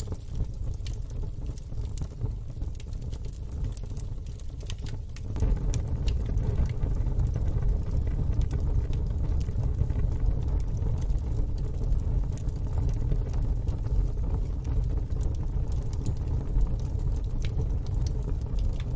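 Wood fire in a fire pit crackling, with frequent sharp pops and snaps over a steady low rumble that gets louder suddenly about five seconds in.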